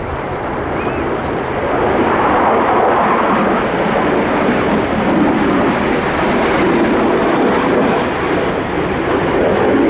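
Military aircraft flying past with a loud, steady engine roar that builds over the first two seconds and then holds.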